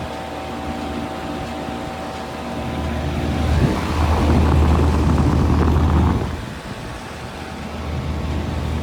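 Heat pump equipment running with a steady low hum and fixed tones. A louder rushing swell builds about three seconds in and cuts off sharply about six seconds in.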